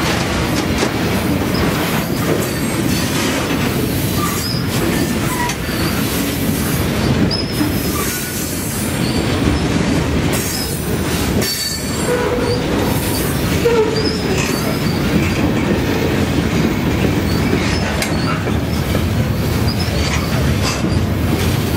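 Freight cars of a passing train rolling by close at hand: a steady loud rumble and clatter of steel wheels on rail, with many short wheel squeals scattered throughout.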